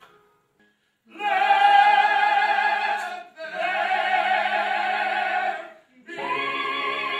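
Choir singing long held chords in rich harmony, three sustained chords with brief breaks between them, after about a second of near silence.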